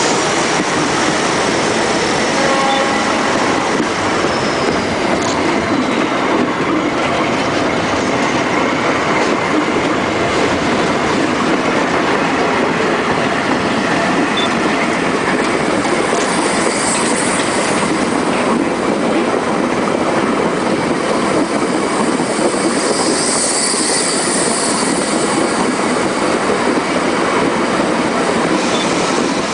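Metre-gauge freight train's tank wagons and wooden boxcars rolling past: a steady rumble and clatter of steel wheels on the rails, with brief high wheel squeals about halfway through and again a few seconds later.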